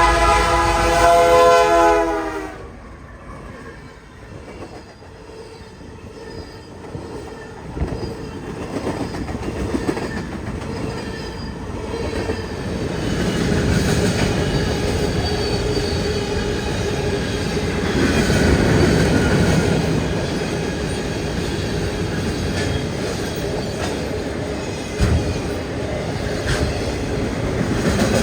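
Train horn sounding for about two seconds and cutting off, then a train passing close by. Its wheels click over the rail joints, building in loudness and then holding steady, with one sharp clank near the end.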